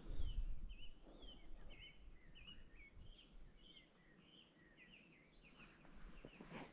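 A songbird singing a fast, continuous run of short, varied chirping notes. A low rumble comes at the start and again briefly near the end.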